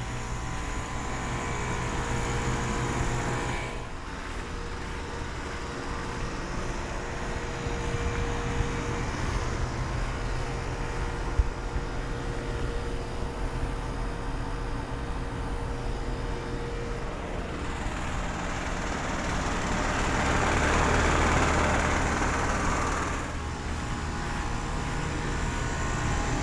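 Carrier Sentry central air conditioner condensing units running, with the steady hum of their LG scroll compressors and the rushing of the condenser fans; the sound shifts a couple of times as different units come close. About two-thirds of the way in, a broad rushing swell rises and fades over a few seconds.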